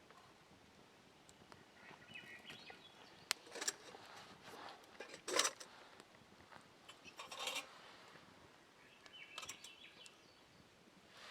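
Quiet outdoor ambience with a few scattered knocks and rustling handling noises, the loudest about halfway through, and faint bird chirps twice.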